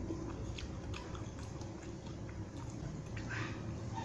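Close-up chewing with the mouth closed: soft, wet mouth clicks. A little after three seconds in, a brief rustle of fingers gathering food on the plate.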